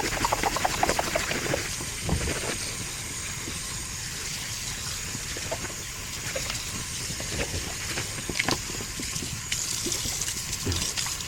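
Water running and splashing as a car's engine air filter is rinsed and scrubbed by hand, with irregular splashes heaviest in the first couple of seconds.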